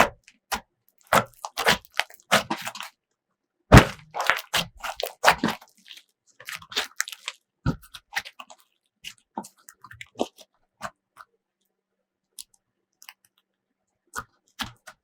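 Slime being squished and pressed by hand, giving irregular, crunchy crackles and sticky pops. They come thick at first and thin out to a few scattered pops in the second half.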